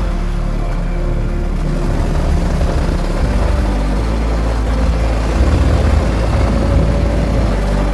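Yamaha MT-15 motorcycle on the move: its engine running steadily under heavy wind buffeting on the microphone.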